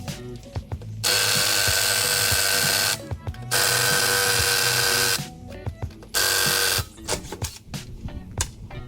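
A motorized tool runs in three bursts: about two seconds, then just under two seconds, then half a second. Each burst starts and stops abruptly, with background music underneath.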